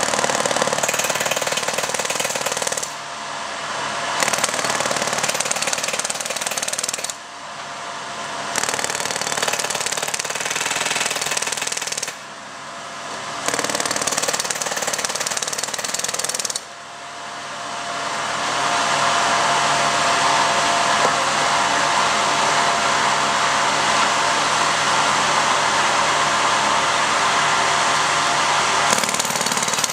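Powered track-maintenance machinery used in tie replacement, running in loud spells with a dense, jackhammer-like rattle. It drops out briefly four times and builds back up after each pause, then runs steadily for the last ten seconds.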